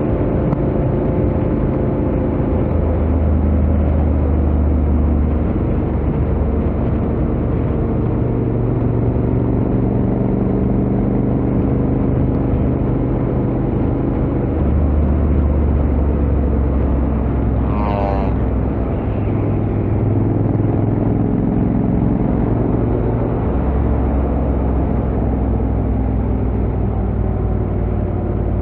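Honda X-ADV 750's parallel-twin engine running through its stock exhaust at a steady highway cruise, its pitch shifting only a little, over constant wind and road noise. A brief warbling chirp cuts in about two-thirds of the way through.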